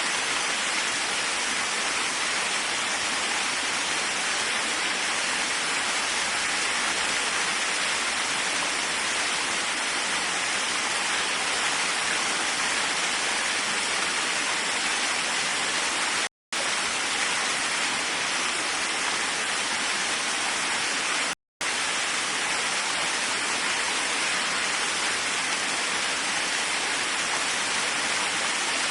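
Waterfall: a steady, even rush of falling water. The sound cuts out to silence twice for a fraction of a second, a little past halfway and again about five seconds later.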